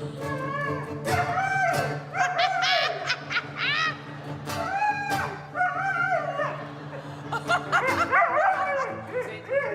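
A dog howling along to backing music, giving several long, wavering howls that slide up and down in pitch.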